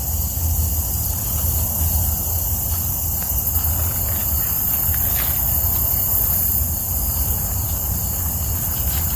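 Crickets and other insects chirring steadily in a dense high-pitched chorus over a steady low rumble.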